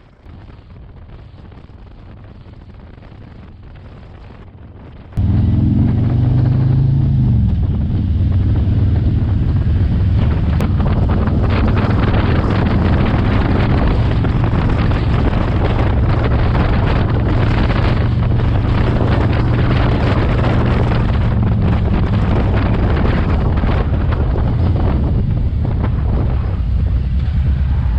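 Motorcycle engine running under heavy wind noise on the microphone while riding. About five seconds in the sound jumps to loud, the engine pitch rises briefly as it accelerates, then holds steady at cruising speed.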